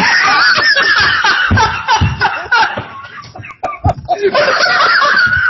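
People laughing loudly together at a joke, with several laughs overlapping and a brief lull partway through.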